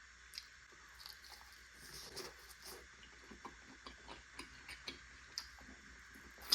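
Faint chewing with small wet mouth clicks and smacks, irregular and close to the microphone, with one sharper click near the end.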